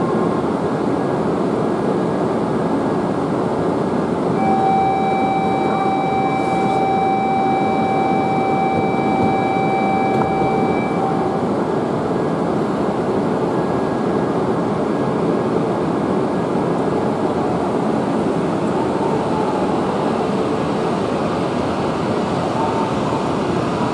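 E5-series shinkansen pulling out of the station and gathering speed, a steady rushing rumble of the train. A steady electronic buzzer tone sounds for about seven seconds, starting about four seconds in.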